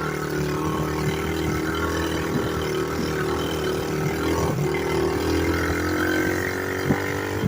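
Small single-cylinder pit bike engine running under throttle on rough ground, its pitch wavering with the throttle, with scattered knocks from the chassis and one sharp knock near the end.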